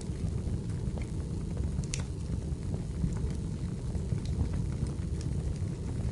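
Wood fire burning in a fireplace: a steady low rumble of the flames with scattered small crackles and pops, one sharper snap about two seconds in.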